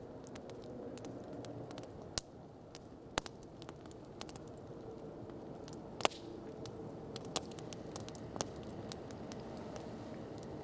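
Wood campfire crackling, with irregular sharp pops over a steady low rush, the loudest pops about two, three and six seconds in.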